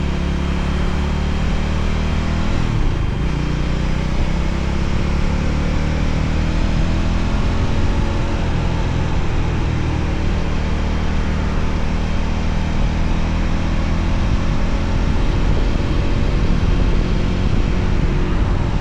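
Voge 300ACX motorcycle engine running while riding, its pitch drifting gently up and down with the throttle, over a steady rush of wind noise.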